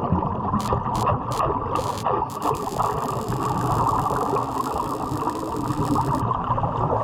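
Underwater welding arc crackling steadily, with several sharp clicks in the first two and a half seconds.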